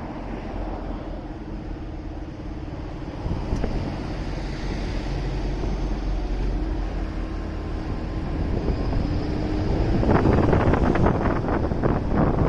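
Motorcycle running on a city road with wind noise on the microphone and a steady engine hum, getting louder and rougher about ten seconds in.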